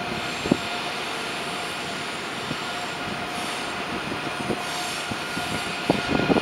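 A train rolling past, a steady rumbling noise with a thin high-pitched whine running over it. There is a single knock about half a second in and a cluster of knocks near the end.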